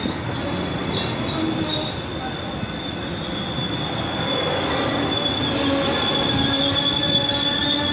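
Amtrak passenger train rolling past, its wheels giving a steady high-pitched squeal over the rumble of wheels on rail. The squeal grows stronger in the second half.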